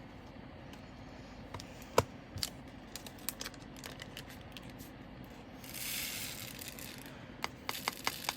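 Small sharp plastic clicks and taps from handling diamond painting drill bags and storage containers, the loudest a single click about two seconds in, with a rustling stretch of about a second and a half near the end.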